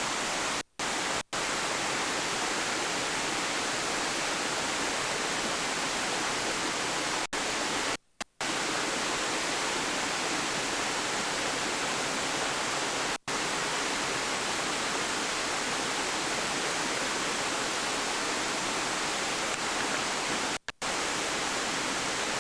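Waterfall rushing: a steady, even roar of falling water, cut by a few brief silent gaps.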